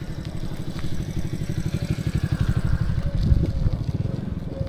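Small moped engine running close by with a rapid, even putter.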